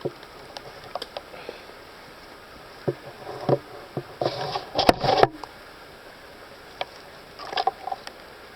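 Footsteps slipping and scuffing in wet mud and brushing through foliage as a person scrambles on a steep muddy slope: scattered thumps and rustles, loudest about five seconds in.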